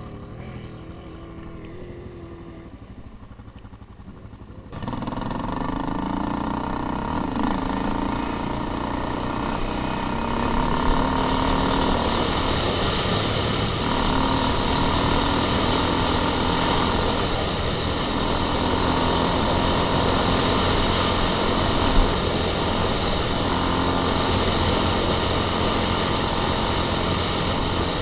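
Off-road vehicle engine running as it is ridden, its pitch rising and falling with the throttle. About five seconds in the sound jumps abruptly louder and closer, then carries on steadily with a strong high hiss over the engine.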